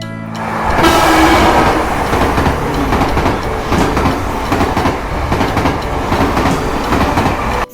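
A train running along its track: a steady, dense noise that builds over the first second and cuts off suddenly near the end.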